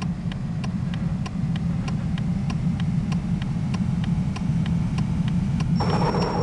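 A motor vehicle running steadily with a low rumble, with a regular ticking about two to three times a second. A short, brighter sound with a thin high tone comes near the end.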